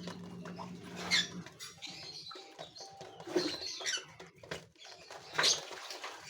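Gouldian finches giving short, high-pitched chirps and calls, the loudest about one, three and five seconds in. A steady low hum stops about a second and a half in.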